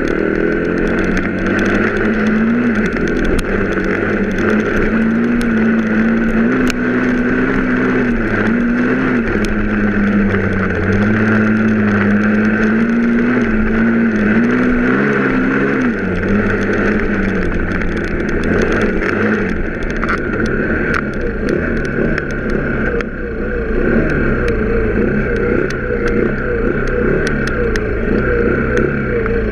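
Vehicle engine running while under way, holding a steady pitch for the first half, then rising and falling with changes of speed in the second half.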